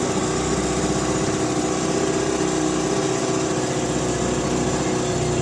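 Small 3-horsepower Evinrude two-stroke outboard motor running steadily on a boat.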